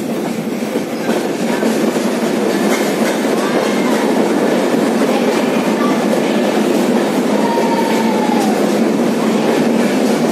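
A passenger train running on its rails, heard from aboard: a steady, loud running noise that grows louder about a second in and stays loud as the train goes into a tunnel. A faint high whine comes in briefly near the end.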